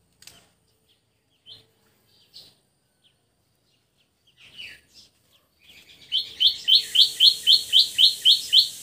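A songbird calling: a few faint single chirps, then from about six seconds in a fast run of about a dozen loud, sharp repeated notes, about five a second.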